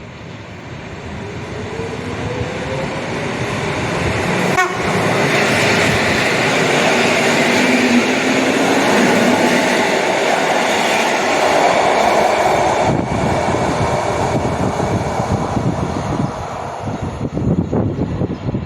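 A train approaching and passing close by. It builds up over the first few seconds with a faint rising whine, runs loud for about eight seconds, then fades away.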